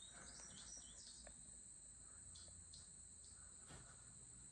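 Near silence, with a faint, steady, high-pitched chorus of insects such as crickets and a few faint chirps in the first second.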